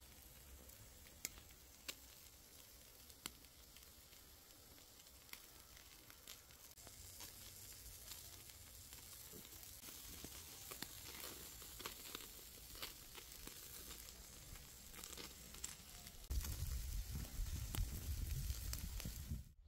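Food frying in a hot pan: a steady sizzle with scattered sharp pops and crackles. Louder low rumbling comes in for the last few seconds, and the sound cuts off suddenly at the end.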